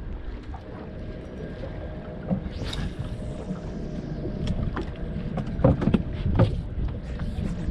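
Wind rumbling on the microphone by the water, with a few knocks and two louder thumps about two-thirds of the way through.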